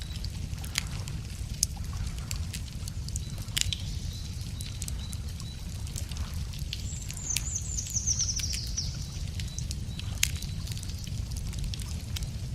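Wood fire crackling, with sharp scattered pops over a steady low rumble. About seven seconds in, a small songbird sings one high trill that falls in pitch.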